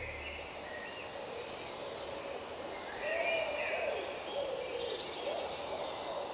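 Birds chirping and calling, several short calls that glide up and down in pitch, with a quick high trill about five seconds in.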